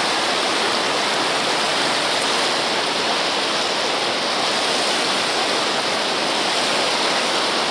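Floodwater rushing steadily, a constant even hiss of moving water.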